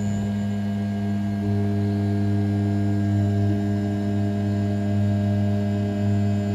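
Desktop CNC milling machine with a 500 W brushless spindle at 6000 rpm, running with a steady hum of several fixed tones while finish-machining a pocket in A7075 aluminium. A further tone joins about a second and a half in, and the sound grows slightly louder.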